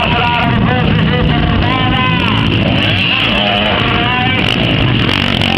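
Motocross dirt bike engines revving up and down, several at once, with voices mixed in.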